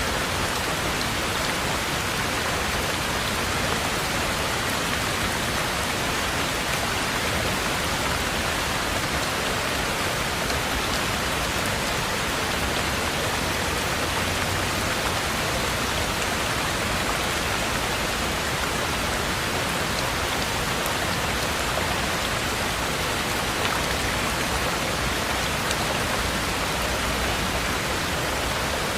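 Heavy rain falling in a steady, unbroken downpour, an even hiss with no single drops or thunder standing out.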